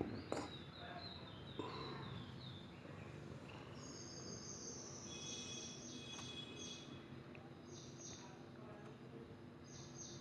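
Faint high-pitched chirping, like small birds calling, coming in repeated short runs, with a few soft knocks near the start.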